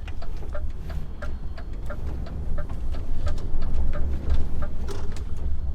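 HGV tractor unit's diesel engine running with a steady low rumble heard from inside the cab, with a run of light clicks and ticks over it.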